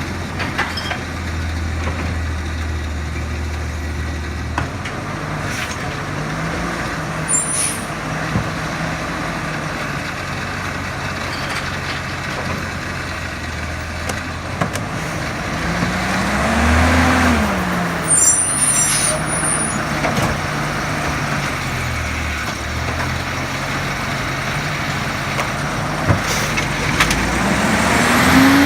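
Garbage truck's diesel engine running at idle, revving up and back down a little past halfway through and climbing again near the end. Brief high hisses come twice, about a quarter of the way in and again just after the rev.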